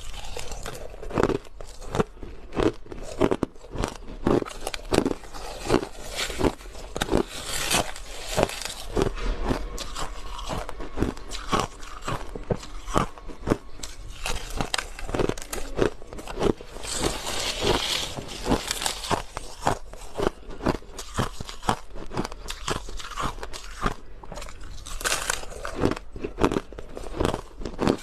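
Crushed ice being bitten and chewed close to the microphone: rapid, irregular crunches, several a second, throughout.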